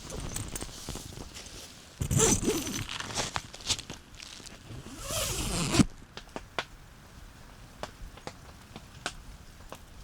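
A zipper being pulled, with a loud stretch of pulling about two seconds in and a second, rising pull that stops sharply near six seconds, among light rustling and small clicks.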